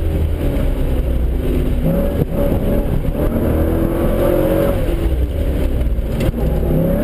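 Car engine heard from inside the cabin, with the revs climbing and dropping several times as the driver gets on and off the throttle through the cones.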